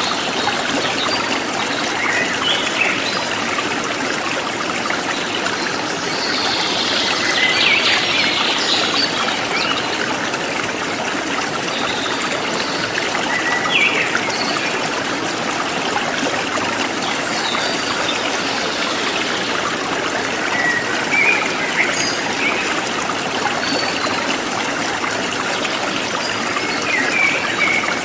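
Forest stream flowing and trickling steadily, with birds chirping now and then over it, in short calls at intervals of a few seconds.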